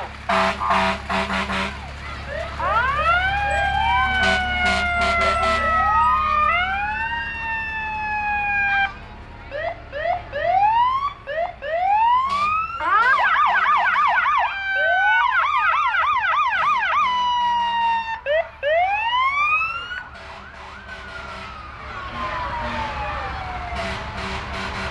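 Fire truck sirens sounding as the trucks pass, several overlapping: rising wails that fall away slowly, a stretch of fast yelping in the middle, and one siren winding down slowly near the end. Short horn blasts come in the first two seconds.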